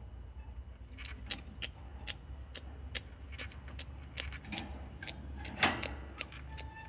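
Irregular light clicks and taps from handling a lovebird nest box and cage, with one louder knock a little before the end, over a steady low hum.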